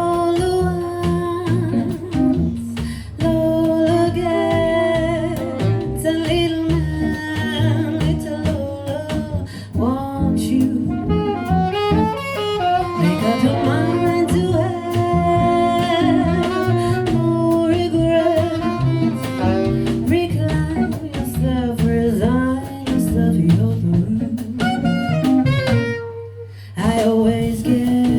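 A jazz quintet playing: saxophone and singing over double bass, guitar and drum kit. The band briefly drops out for about a second near the end.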